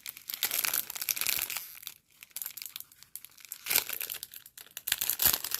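Plastic packaging of diamond painting drills crinkling as it is pulled and worked open by hand, with a short lull in the middle before the crinkling picks up again near the end.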